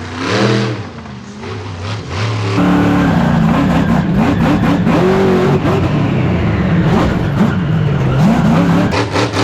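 Monster truck engine revving hard, its pitch swinging up and down repeatedly. It starts suddenly and loud about two and a half seconds in and runs until just before the end, after a stretch of voice over the PA.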